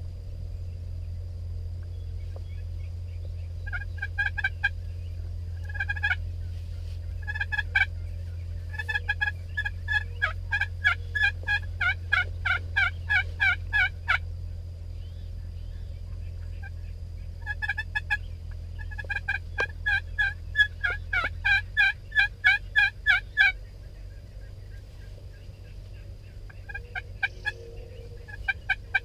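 Wild turkeys yelping: several bouts of quick, evenly repeated calls, the longest lasting about five seconds. A steady low rumble runs underneath and eases off about three-quarters of the way through.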